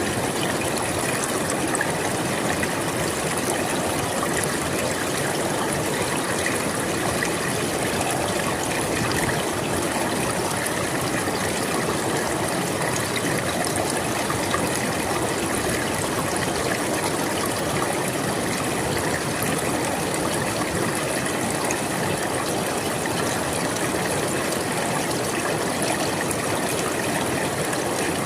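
River water flowing steadily, an even rushing and babbling with no breaks.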